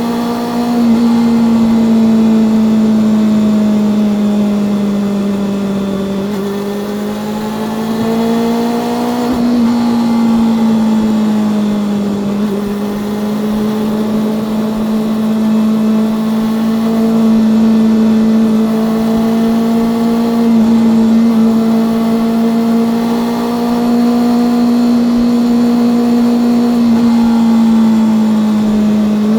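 Honda CB400SF Revo's inline-four engine and exhaust under way at steady cruising revs. The pitch eases down and back up a few times with small throttle changes.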